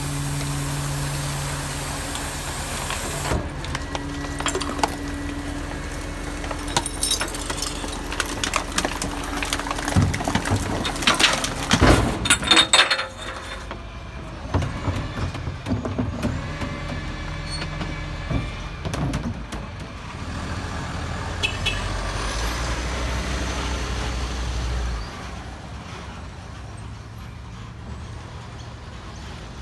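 Garbage truck at work: its diesel engine runs steadily, with a run of clattering and knocks from about seven to thirteen seconds in. A deeper drone stops near the end.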